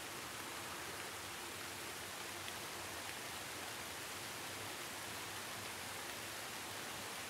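Steady rain falling: an even, unbroken hiss with no distinct drops standing out.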